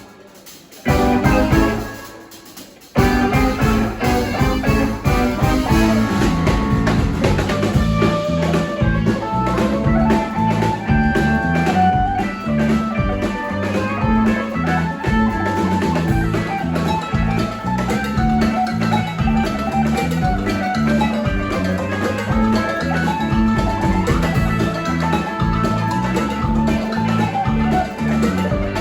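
Live band music with drums and guitar. The band drops out at the start except for one loud hit that rings and fades, then comes back in together about three seconds in and plays on with a steady beat.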